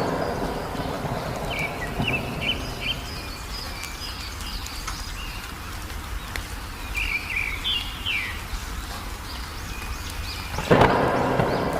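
Songbirds chirping in short, quick phrases over the steady hiss of rain. About a second before the end, a loud rumble of thunder breaks in.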